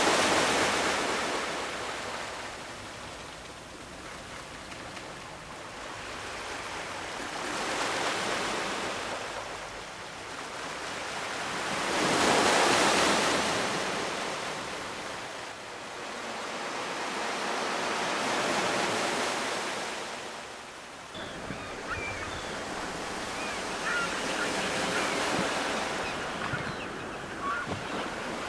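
Ocean waves breaking and washing on the shore, the surf swelling and ebbing about five times, the loudest wave about midway. A few faint short high chirps come in over the surf near the end.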